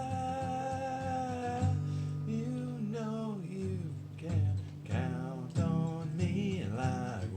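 Acoustic guitar strumming under a singing voice: a long held sung note that ends about a second and a half in, then sliding, wavering vocal phrases.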